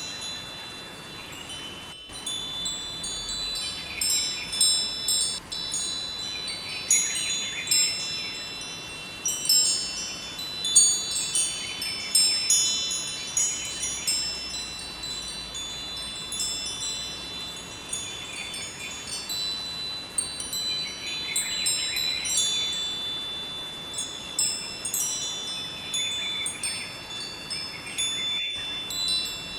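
Wind chimes ringing, with many high, clear tones struck irregularly in clusters, over the steady rush of a flowing river.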